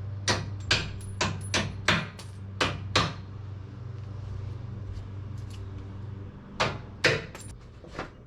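Hammer strikes during work on a stuck bumper bolt: about eight sharp knocks in the first three seconds and two more near the end. A steady low hum runs underneath and stops about six seconds in.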